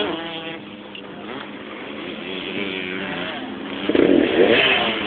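Motocross dirt bikes running on the track, their engine notes rising and falling as the riders work the throttle. The sound gets louder about four seconds in.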